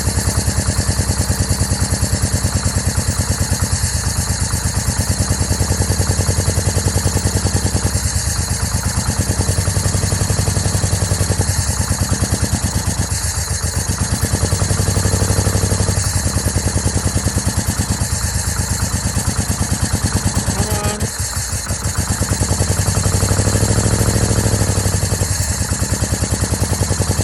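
2004 Yamaha V-Max's V4 engine running on its first start after fifteen years standing, with swells in revs about a third of the way in, around the middle, and near the end. It runs with one bad ignition coil and two faulty spark plug leads, which the owner found after this start.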